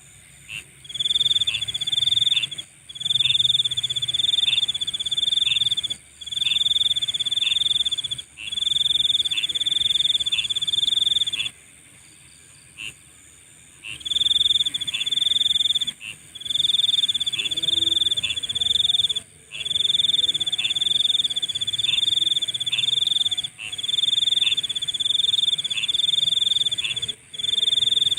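Night insects: a high trill sounding in phrases of about two seconds with brief gaps and a pause of about two seconds near the middle, over a steady, even higher-pitched chorus of more insects.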